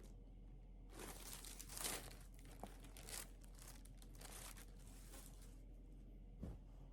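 Faint crinkling rustles of packaging being handled, in several short bouts, with a soft knock near the end.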